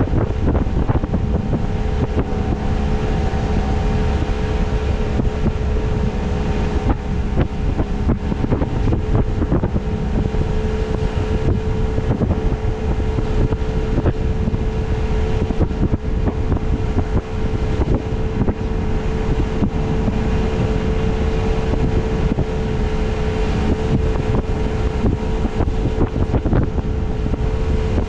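A boat's motor running steadily underway, with a constant hum, and wind buffeting the microphone.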